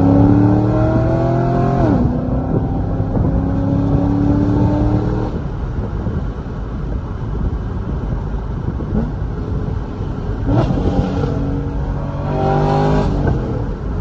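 2006 Chevrolet Corvette C6's LS2 V8 with catless headers and a cat-back exhaust, pulled hard under acceleration. The engine note rises, drops suddenly at an upshift about two seconds in, and rises again to about five seconds in. It settles to cruise, then climbs again with another shift near the end.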